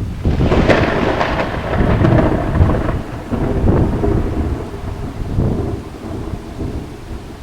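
A thunderclap: a sudden crackling crash just after the start, settling into a low rumble that fades away over several seconds.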